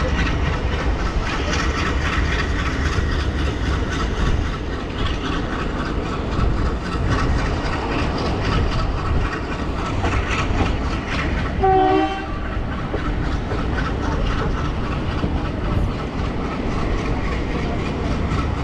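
Diesel-hauled passenger train running, heard from aboard: a steady running noise with the wheels clattering over the track. A short train horn blast sounds about twelve seconds in.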